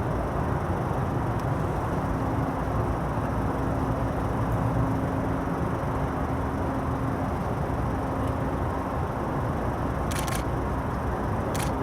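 Steady low machinery rumble with a constant hum. A few short, high hissing clicks come near the end.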